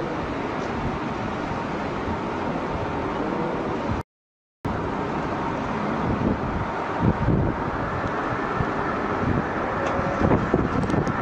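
Aeroplane engine and airflow noise, steady, cut to silence for about half a second about four seconds in.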